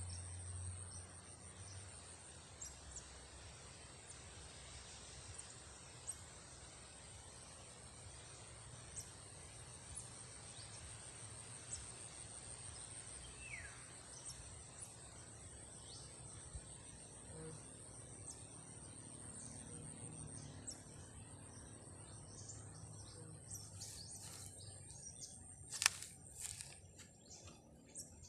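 Faint outdoor ambience: a steady high-pitched insect drone with a few short bird chirps and one falling whistle about halfway through. Near the end the drone stops and a cluster of clicks comes, with one sharp knock.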